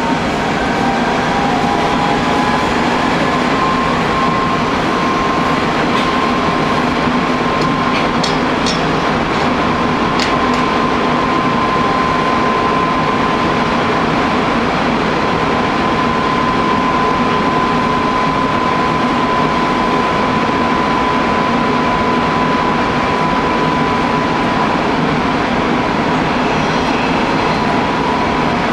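Hanshin Railway local electric train running between stations, heard from inside the car: a steady rumble of wheels on rail under a motor whine that rises a little in pitch over the first few seconds and then holds steady. A few sharp clicks come from the track about eight to ten seconds in.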